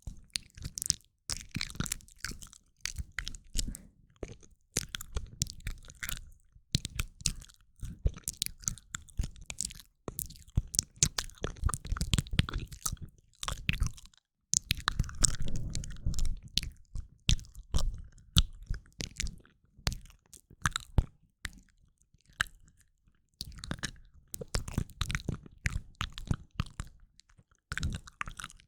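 Close-miked ASMR mouth sounds: rapid wet clicks, smacks and tongue pops in irregular clusters with brief pauses, and a longer, denser stretch about halfway through.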